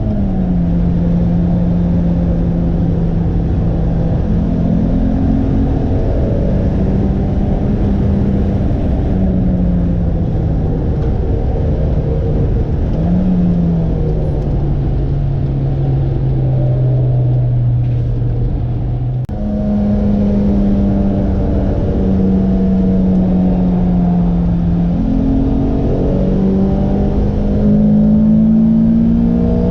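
Lotus sports car engine under load on a track lap, its note climbing and dropping with gear changes and throttle. It sinks steadily for several seconds past the middle, dips briefly, then jumps back up and climbs again toward the end.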